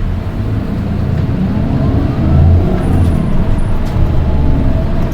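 Nissan Diesel Space Runner RM (PDG-RM820GAN) city bus, heard from inside, with its diesel engine pulling and growing louder about two seconds in. A thin whine rises and then falls in pitch over it: the unusually shrill engine note found on this one of the four RM820s in the fleet.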